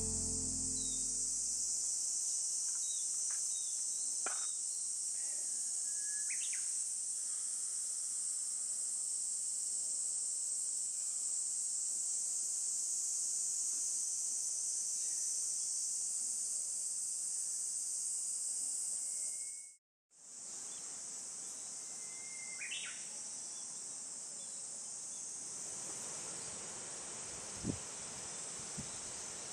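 A steady, shrill chorus of summer insects fills the forest, with a few short bird chirps over it. The chorus breaks off for an instant about two-thirds of the way through, and a couple of soft knocks come near the end.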